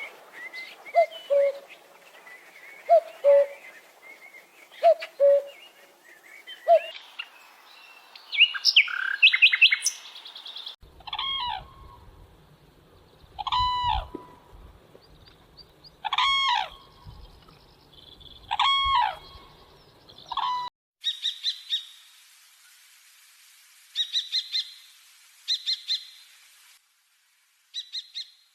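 Several different birds calling in turn. First low two-note calls repeated every second or two, then a loud ringing call repeated about every two and a half seconds, then bursts of short, high chirps.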